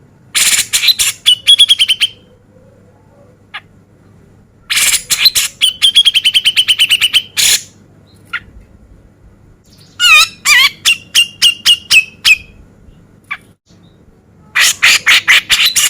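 Male grey-cheeked bulbul (cucak jenggot) singing in four bursts a few seconds apart. Each burst is a rapid string of harsh, raspy notes ending in a quicker, steadier trill.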